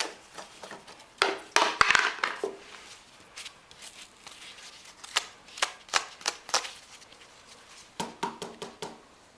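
Hands working on a lawn mower: irregular clicks, taps and knocks of parts being handled, coming in a few short clusters.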